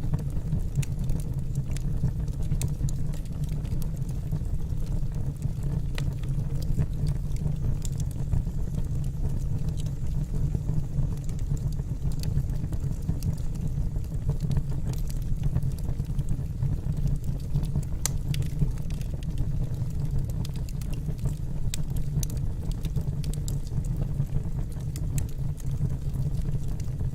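Wood fire burning in a fireplace: frequent sharp irregular crackles and pops over a steady low rumble.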